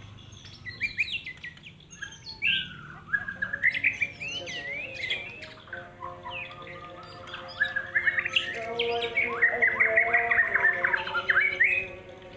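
Caged songbirds singing: a fast stream of chirps, whistles and trills, busiest in the second half, over a bed of steady held tones.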